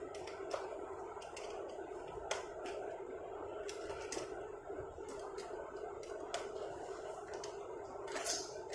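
Handling of small die-cast toy cars and their cardboard and plastic packaging: scattered light clicks and taps at irregular times over a steady background hum.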